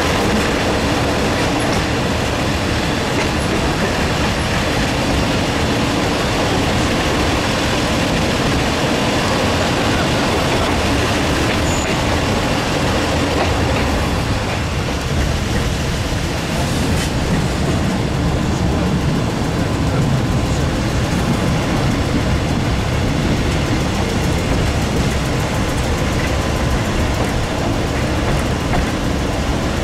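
A train running along the track, heard from inside a carriage with the window open: a loud, steady rumble of wheels on rails.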